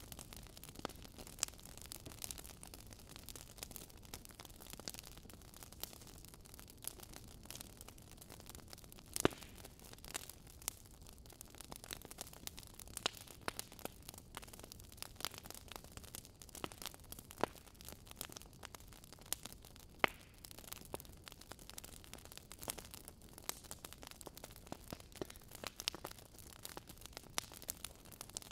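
Fireplace fire crackling: a low steady hiss with frequent irregular pops and snaps, a few of them sharper and louder.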